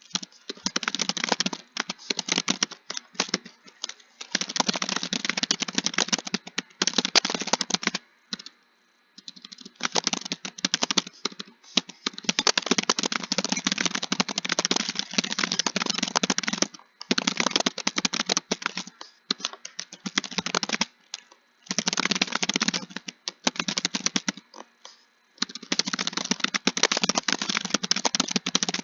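Fast, continuous typing on a computer keyboard: dense runs of keystrokes lasting a few seconds each, broken by brief pauses.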